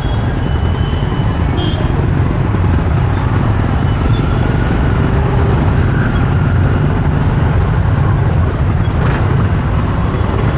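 Steady road noise heard from a motorbike riding through city traffic: a continuous low rumble of engine, tyres and wind. A few faint high tones sound in the first couple of seconds.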